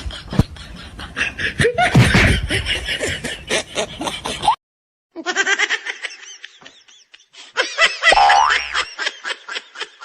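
People laughing in quick repeated bursts, broken off by a sudden cut to silence about halfway through before the laughter starts again.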